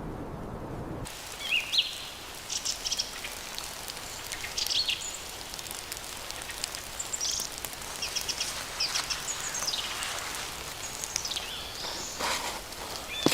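Small birds calling outdoors: scattered short chirps and quick gliding whistles over a steady hiss, with faint irregular ticks. A low wind-like rumble fills the first second and cuts off abruptly.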